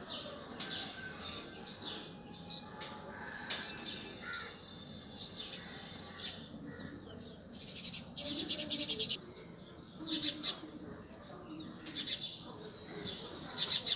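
Small birds chirping in short, high calls about once a second, with a fast trill lasting about a second around the middle.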